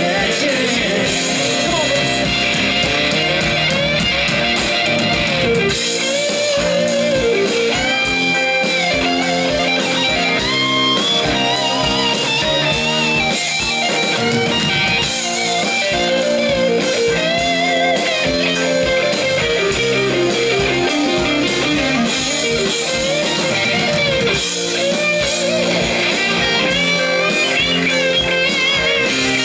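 Live rock band playing an instrumental passage, led by an electric guitar line with bent and sliding notes over drums.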